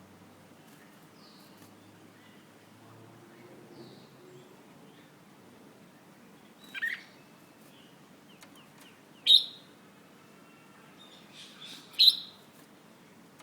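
Young red-whiskered bulbul calling: a few faint chirps, then three loud, sharp calls a few seconds apart.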